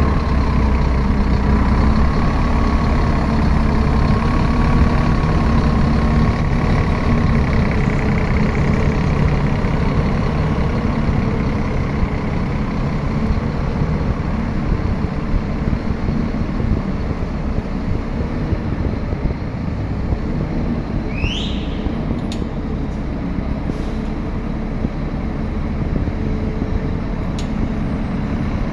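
Scania bus's diesel engine running steadily with a low hum, and a wavering whine over it for the first several seconds. A short, high, rising chirp a little past two-thirds of the way through.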